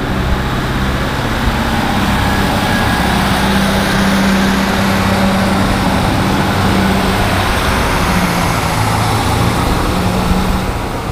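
Class 156 Super Sprinter diesel multiple unit passing close by at speed: a steady loud rush of wheels on rail with the low hum of its underfloor diesel engines.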